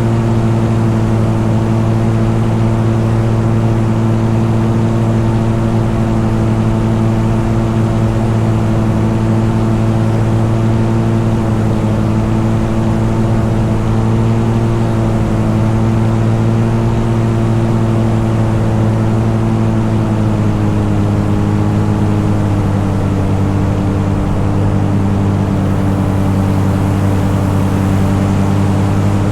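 Motorcycle engine running steadily at cruising speed while riding. Its pitch drops slightly about two-thirds of the way through.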